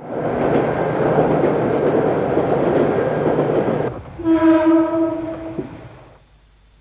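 Diesel train running on the rails with a steady rumble, then sounding its horn about four seconds in: one steady tone held for under two seconds, after which the sound fades away.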